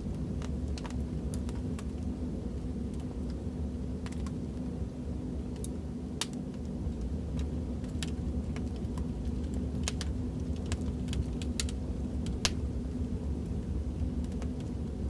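Wood fire crackling: irregular sharp pops and snaps, about a dozen, over a steady low rumble.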